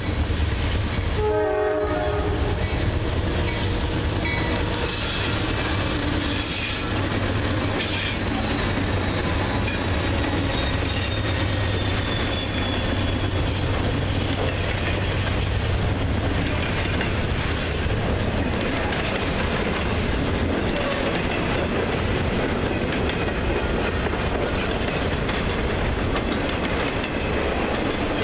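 Norfolk Southern intermodal freight train passing close. The deep rumble of its lead diesel locomotives fills the first half. After that comes the steady rolling noise and clickety-clack of double-stack container and trailer cars, with a thin high tone sliding slowly down in pitch early in the pass.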